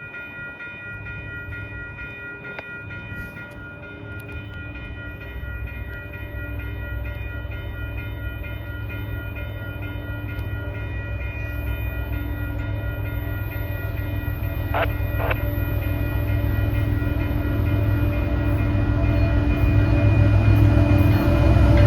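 A steady low rumble with several steady high tones above it, growing gradually louder throughout. About two-thirds of the way in, two brief sharp high sounds come half a second apart.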